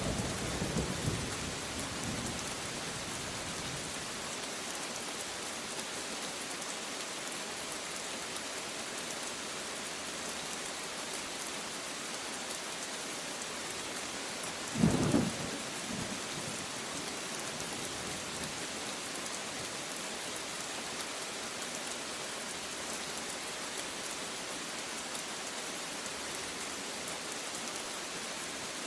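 Steady heavy rain falling, with a thunder rumble dying away over the first few seconds and a sharp, loud thunderclap about halfway through.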